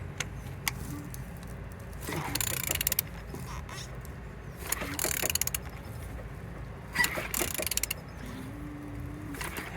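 A removed engine being turned over by hand, with a ratcheting, hissing scrape about every two to three seconds and a few sharp clicks. It turns freely, with full compression.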